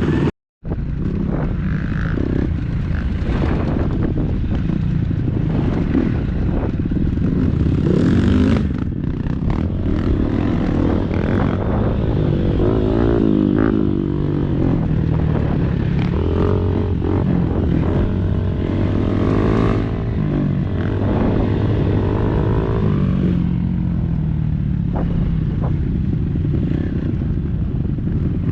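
Dirt bike engine running under load on a trail, its pitch rising and falling as it is revved and eased off. There are occasional knocks and rattles. The sound drops out for a moment just after the start.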